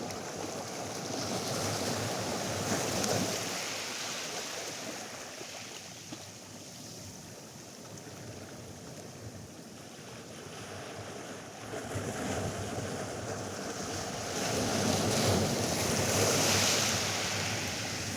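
Atlantic surf breaking and washing up a sandy beach, swelling twice: once near the start and again, louder, in the last few seconds.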